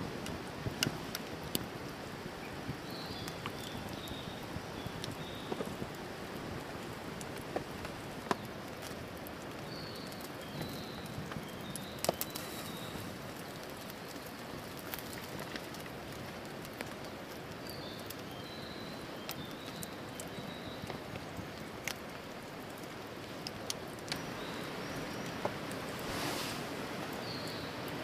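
Wood campfire crackling, sharp irregular pops over a steady hiss. A small bird calls in short high chirping phrases every several seconds.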